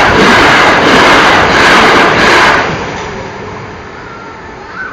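A train passing through the level crossing at speed: a loud, even rush of noise for about three seconds that then fades away.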